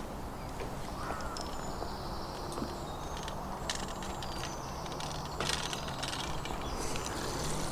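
Outdoor background with birds chirping, a low steady hum, and a few sharp clicks, the clearest about three and a half and five and a half seconds in.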